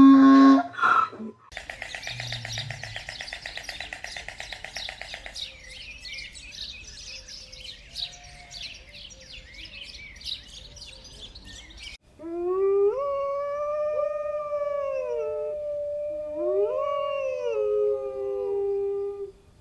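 Dense high twittering, like a bird flock, for the first half. Then a long canine howl, rising, holding and falling in pitch, with a second howling voice joining and overlapping partway through.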